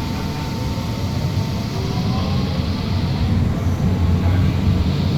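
Alstom Citadis Spirit light-rail train pulling away from a station, heard from inside the car: low running rumble with a faint rising motor whine, growing gradually louder as it accelerates.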